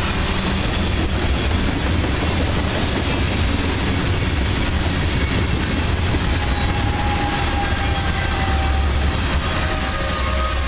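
Freight train of ethanol tank cars rolling past, steel wheels on the rails, with a steady low rumble and clatter.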